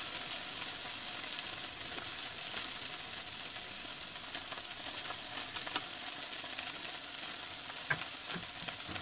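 Sliced okra sizzling steadily in hot oil in a stainless steel frying pan. A wooden spoon stirs it, with a few short knocks against the pan in the second half.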